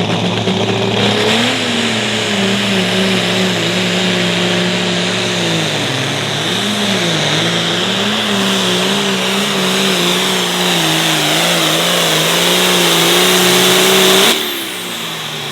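Pulling tractor engine running flat out under load, its pitch wavering up and down as it works, then dropping off suddenly a little before the end.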